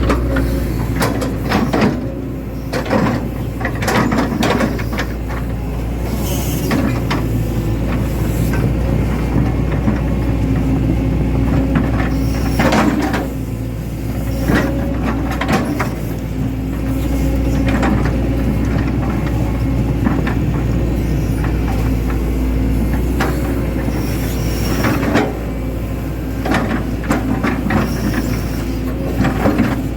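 Hitachi Zaxis 110 excavator's diesel engine running steadily, with frequent sharp knocks and clanks from the working machine.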